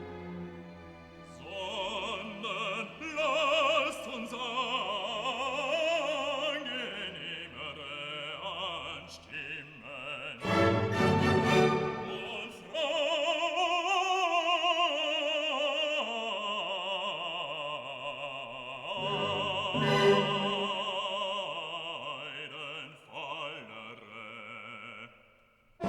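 Operatic music: a singer holds long, wavering notes with strong vibrato over an orchestral accompaniment, swelling louder about ten seconds in.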